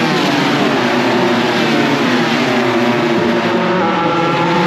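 Several MotoGP racing motorcycles running at full race speed, their engines climbing and dropping in pitch through gear changes, with a rising note near the end.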